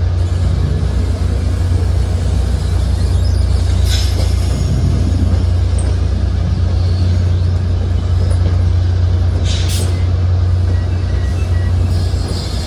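NJ Transit commuter train's passenger coaches rolling slowly past, with a loud, steady low hum. A few sharp clicks and a short hiss come about four and ten seconds in.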